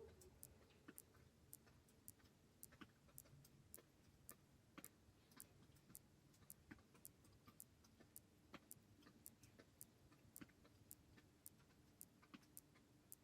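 Faint, even ticking, about two to three clicks a second, over a low background hum.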